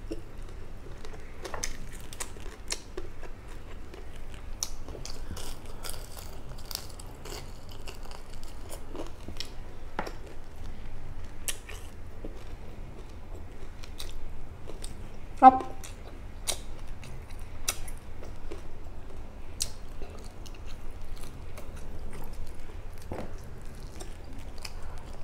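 Chewing and crunching of crispy fried fish, with scattered small crackles and clicks. A brief vocal sound comes about two thirds of the way through.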